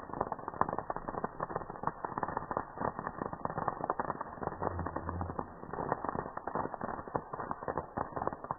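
Campfire crackling, with dense, irregular snaps of burning wood.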